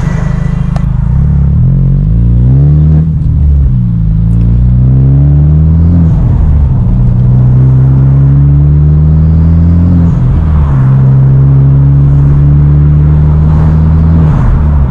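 2014 Hyundai Genesis Coupe 2.0T's turbocharged four-cylinder, breathing through a Tomei titanium single-exit exhaust, accelerating up through the gears. The engine note climbs, drops at each upshift about three, six and ten seconds in, then climbs again before easing off near the end.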